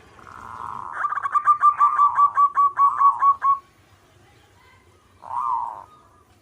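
Zebra dove (perkutut) singing: a drawn-out opening coo runs into a fast series of about a dozen short clipped notes, about five a second, followed after a pause by a single short coo near the end.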